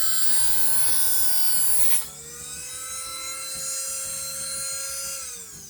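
Small high-speed rotary tool cutting through a steel spiral-shank nail pin in a wooden knife handle: a loud, high grinding whine. About two seconds in the cut ends and the tool spins on free with a steadier whine, then winds down, its pitch falling, near the end.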